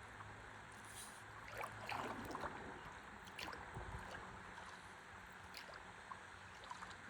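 Faint river water lapping and trickling around a stand-up paddleboard, with a few small splashes and drips, most between about one and three and a half seconds in.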